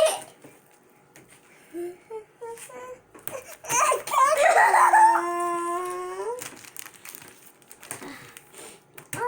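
A child's drawn-out whining cry: one long wail of about three seconds in the middle, breaking up at first and then held on a steady pitch, with a few short voice sounds before it.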